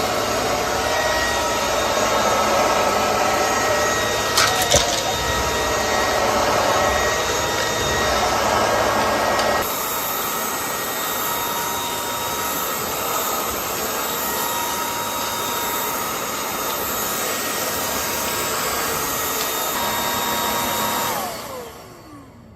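Lubluelu 202 cordless stick vacuum's brushless motor running steadily, with a couple of knocks about four and a half seconds in and an abrupt change in its sound a little under halfway. Near the end it is switched off and the motor whines down to a stop.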